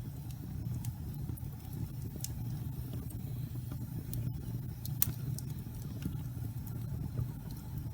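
Wood fire burning in a fireplace: a steady low rumble of flames with scattered crackles and one sharper pop about five seconds in.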